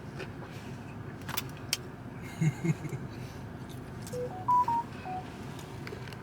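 A few sharp clicks and soft knocks, then about four seconds in a quick run of five electronic beeps at different pitches, stepping up and then back down.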